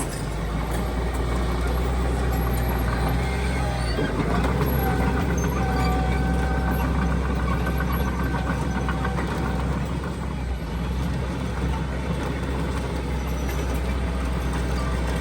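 Heavy diesel earthmoving machinery running steadily under load, with a thin high whine from about four to nine seconds in.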